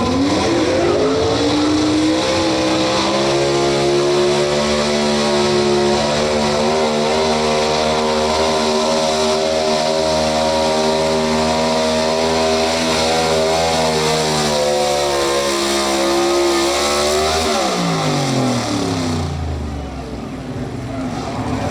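Pro Stock 4x4 pulling truck's engine revving up hard at the start of a pull, held at high revs for about fifteen seconds, then winding down as the run ends.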